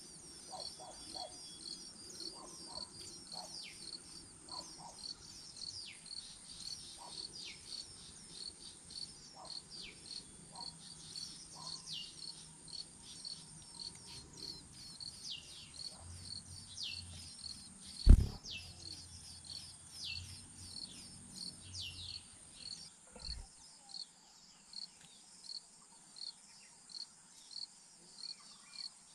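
Crickets chirping in a steady rhythm, about two chirps a second, with short, high, falling whistled calls over them for the first two-thirds. A single loud thump comes about 18 seconds in.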